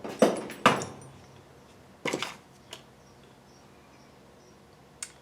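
Rummaging among tools on a workbench while looking for a lathe chuck key. Two loud clunks come in quick succession, the first with a brief metallic ring, then two lighter knocks about two seconds in.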